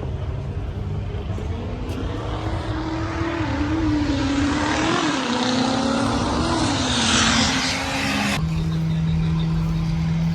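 Diesel truck engine revving hard and held at high revs, its pitch wavering, with a loud hiss building over it. About eight seconds in the sound cuts off abruptly to a steadier, lower engine drone.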